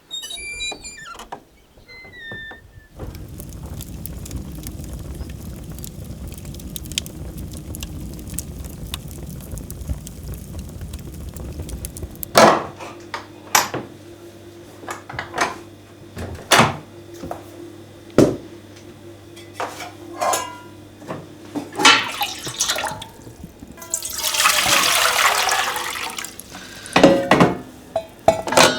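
Kitchen work: a steady rush of running water for about ten seconds, then a string of sharp knocks and clinks, with a short splashing rush near the end.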